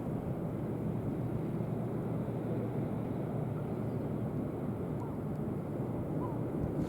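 Steady low rumble of a cross-channel ferry's engines.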